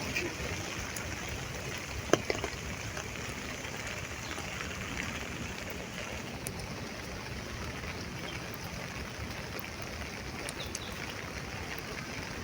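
Steady rain falling, an even hiss, with a couple of sharp taps about two seconds in.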